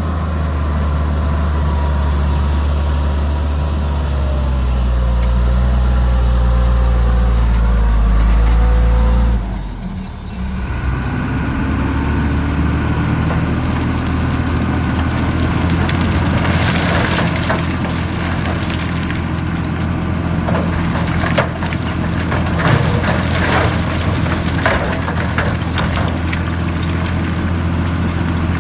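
Heavy diesel engine of earthmoving machinery running steadily. Its pitch shifts with a brief dip in loudness about a third of the way in. In the second half, repeated sharp clanks and scrapes sound over it.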